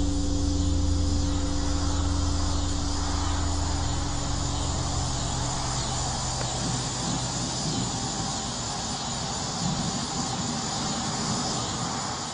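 A low droning hum of several held tones that fades over the first half, over a steady high hiss; the sound cuts off suddenly at the end.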